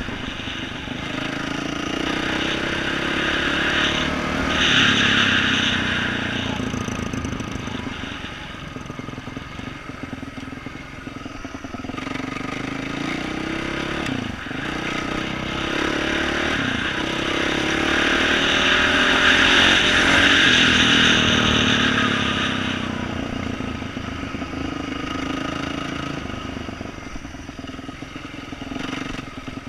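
2012 Yamaha YZ450F dirt bike's single-cylinder four-stroke engine with an aftermarket exhaust, revving up and down under throttle. It is loudest about five seconds in and again around twenty seconds in.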